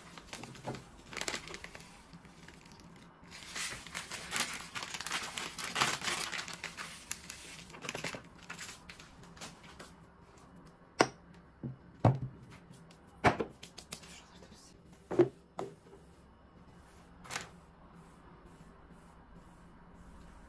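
Plastic spice packet crinkling and rustling as red pepper flakes are shaken out of it into a jar, dense for several seconds in the first half. In the second half, a few separate sharp knocks, like hard items tapped or set down on a table.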